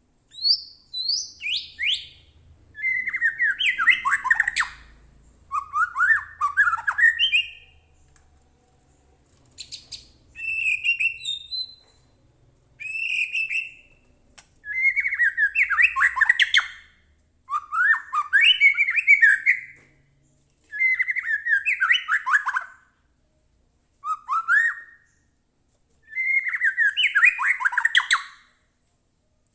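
White-rumped shama singing, a string of loud, varied song phrases of a second or two each with short pauses between them, many mixing whistled notes with harsh, scratchy notes.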